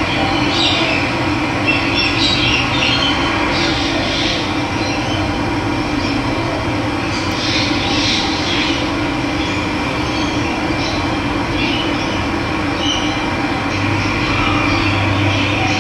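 Steady rush of running water with birds chirping now and then above it.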